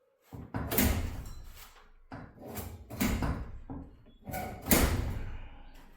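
Garage door torsion shaft being shoved sideways: three loud metallic clanks and scrapes, each ringing off for about a second. The shaft binds because the other cable drum is not yet loose enough.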